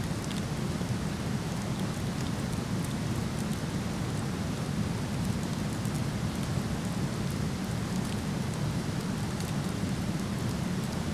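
Steady rushing of a waterfall, with faint scattered crackles from a wood fire burning.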